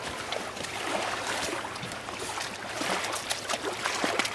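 River water rushing and splashing around a raft: a steady hiss with many small splashes and knocks.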